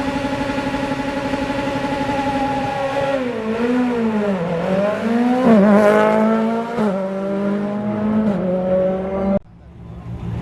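Rally car engine held at high, steady revs on the start line for about three seconds. The revs then dip and climb again several times as the car pulls away, settling into a steadier, lower drone. The sound drops off abruptly about a second before the end, leaving a quieter engine note.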